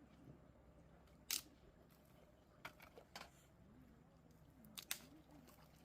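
A few sharp clicks or light knocks, the loudest a little over a second in and a quick pair near the end, over a faint quiet background.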